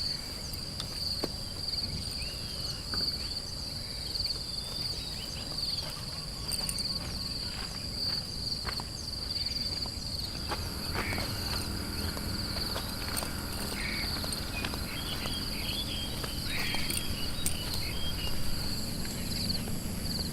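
Insects trilling steadily in a high, unbroken chorus, with scattered light clicks and rustles underneath.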